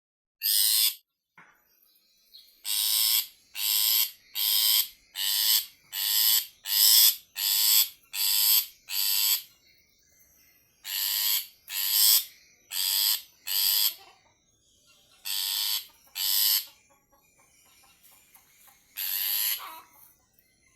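Long-tailed shrike (cendet) giving a series of harsh, rasping calls, about seventeen in all, mostly in quick runs with a few short pauses. These are calls to attract a female.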